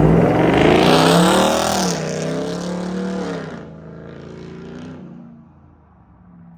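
Straight-piped Ram TRX's supercharged 6.2-litre Hemi V8 revving hard, its pitch climbing and falling twice, then dying down.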